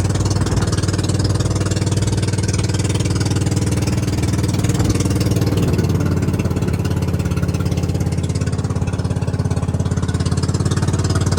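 A small engine running steadily at an even speed, with a fast, regular firing pulse. It starts and stops abruptly, as at an edit.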